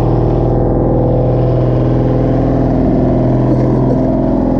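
Heavy diesel engine of a log loader running steadily.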